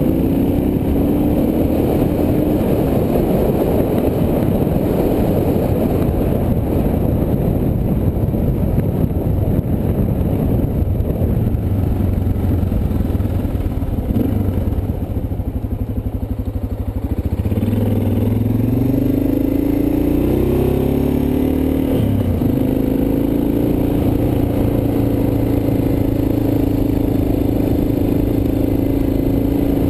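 Suzuki DR650's single-cylinder four-stroke engine under way, heard from on the bike with wind noise on the microphone. The engine note drops about halfway through as the bike slows, then rises as it pulls away and settles into a steady cruise.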